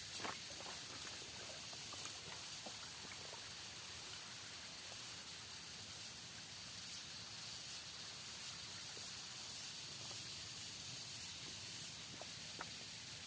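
Rainforest ambience: a steady high-pitched hiss with a few faint ticks and taps scattered through it.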